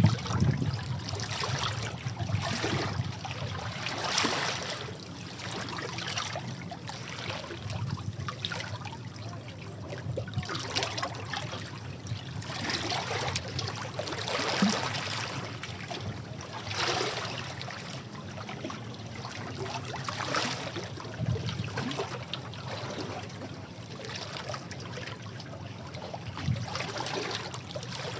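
Sea waves washing against rocks, with repeated surges and splashes every second or two over a constant wash of water.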